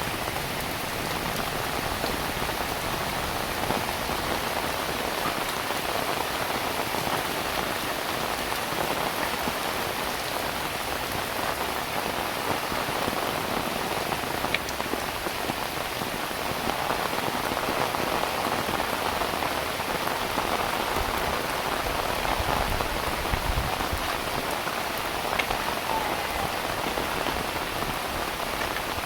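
Heavy rain falling steadily, with a few louder single drops ticking now and then.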